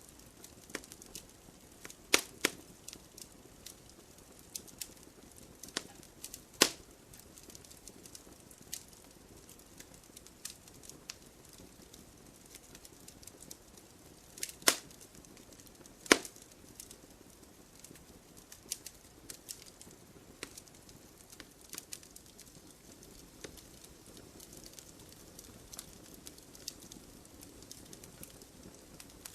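Wood fire crackling: irregular sharp pops and snaps over a soft steady hiss, with a handful of louder pops scattered through.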